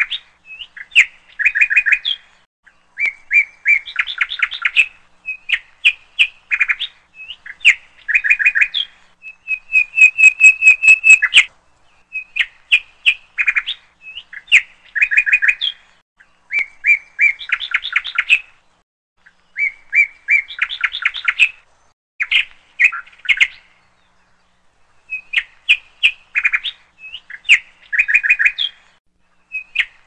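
A songbird singing: short, quick phrases of chirping and trilled notes, repeated every second or two with brief pauses between them, and a faster run of higher notes about ten seconds in.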